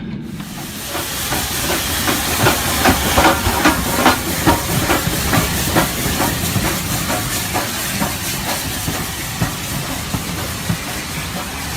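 Steam locomotive sound for a Midland 4F: a loud, steady hiss of steam with a quick, regular beat that is strongest in the first half and fades later on.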